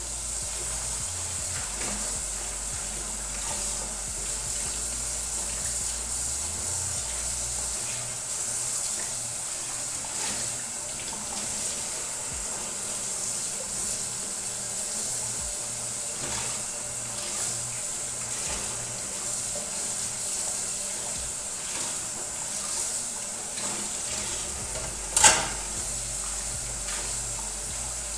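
Water running steadily from a tap into a sink, with a sharp knock about 25 seconds in.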